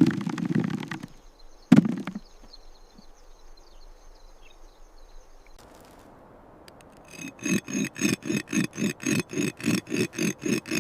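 Rhythmic scraping of a hand tool digging into earth, about four to five strokes a second, starting about seven seconds in. Two short low bursts come near the start.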